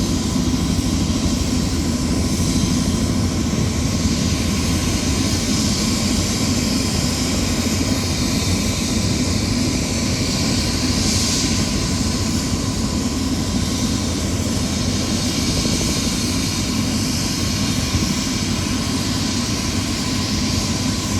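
Tour helicopter's turbine engine and rotor running steadily on the ground: a constant loud rumble and hiss with a faint steady whine.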